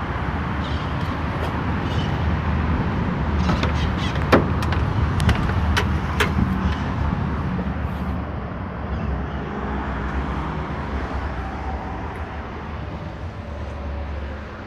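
Scania R 450's 13-litre six-cylinder diesel engine running at a steady low rumble. A few sharp clicks or knocks come in the middle.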